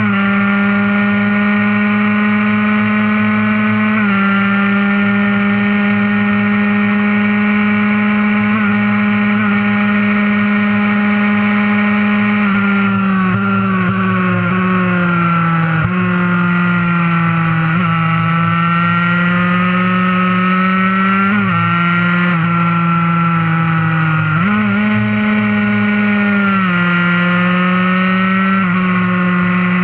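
Fully modified Honda NSR50's 50cc two-stroke single-cylinder engine running at high revs on track. Its pitch holds nearly steady for the first dozen or so seconds, then falls and climbs several times with throttle and gear changes.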